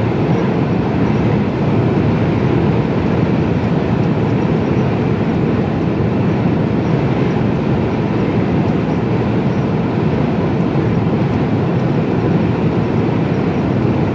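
Steady drone of a Mercedes-Benz Actros lorry cruising, heard inside the cab: diesel engine running under even load mixed with tyre and road noise.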